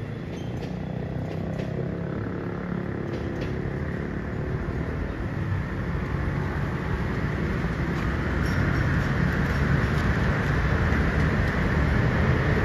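Diesel passenger train's coaches rolling over the rails and moving away, a steady low rumble with a hiss that grows louder toward the end.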